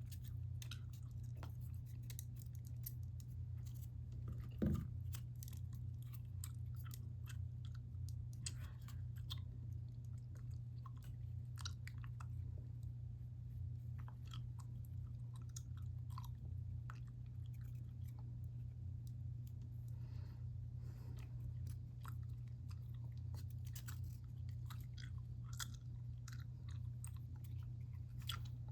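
Irregular small crinkles and clicks of hands working model rocket parts, over a steady low hum, with one louder knock about five seconds in.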